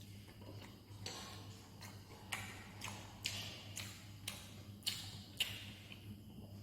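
Eating sounds from someone chewing momos: a run of soft, irregular clicks and smacks, roughly one every half second to a second, over a steady low hum.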